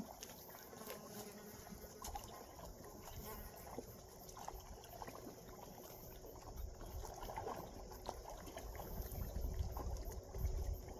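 Low wind rumble on the microphone that comes in stronger gusts in the second half, with scattered small clicks over a faint steady hiss.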